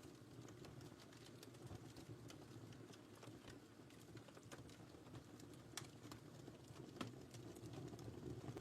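Wood fire in a fireplace crackling quietly: a low steady rumble of the flames with scattered small pops and crackles, a couple of sharper pops in the second half.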